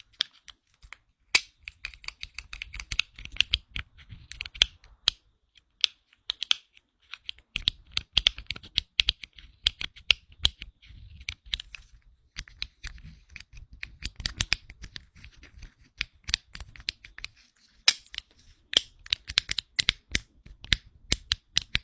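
Plastic fidget cube being played with: irregular runs of quick, sharp clicks from its Joy-Con-style buttons and switches, with a couple of short pauses.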